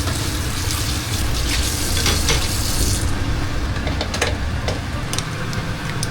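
Food sizzling in a small frying pan as it is stirred. The sizzle dies down about three seconds in, and a few sharp clicks of the utensil against the pan follow, over a steady low hum.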